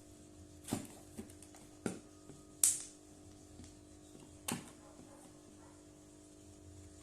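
Handling of a toy washing machine and its packaging: a few scattered knocks and clicks, the loudest a sharp rustling crack about two and a half seconds in, over a steady low hum.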